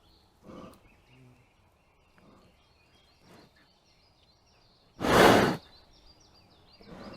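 Young brown bear breathing out near the trail camera: one loud, breathy huff about five seconds in, with a few softer puffs of breath before it. Small birds chirp faintly in the background.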